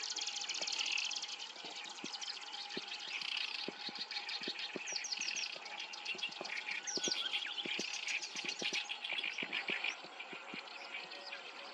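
Black-browed reed warbler singing: a fast, varied, chattering song of rapid trills with quick slurred notes mixed in.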